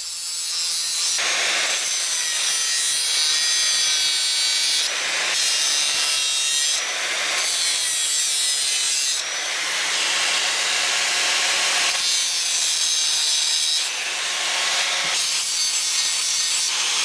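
Angle grinder dressing and chamfering the cut edges of steel square tubing: a harsh, hissy scraping of the disc on metal over the motor's steady hum, broken by several abrupt cuts between clips.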